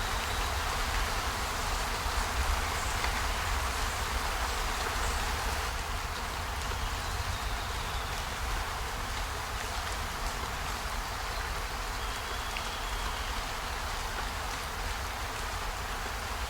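Steady rain: an even hiss with a low rumble underneath and a few faint ticks.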